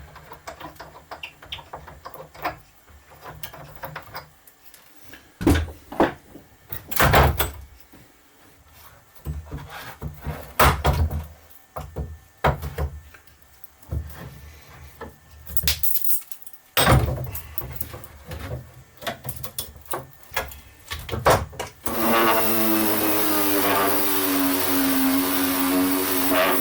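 Knocks and clicks from the parts of an old wooden window sun shade being handled and worked on with hand tools. About 22 seconds in, a power tool's motor starts and runs steadily, its pitch dipping a little as it takes load.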